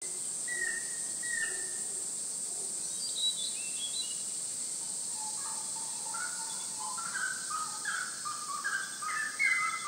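Tropical rainforest birds calling: two short whistled notes near the start, then from about halfway a rapid run of short, stepped whistled notes, over a steady high-pitched drone.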